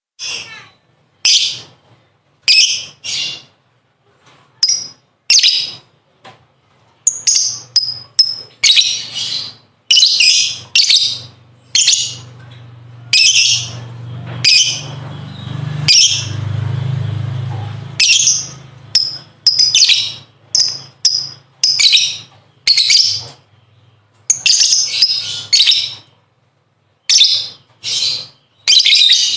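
A lovebird giving its high, rapid, chattering 'ngekek' song in a run of short bursts with brief gaps between them. A low hum swells and fades in the middle.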